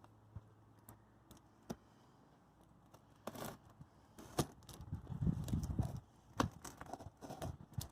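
Hands working at a cardboard box to get it open: a few sharp clicks and knocks, then a stretch of scraping and rustling about five seconds in.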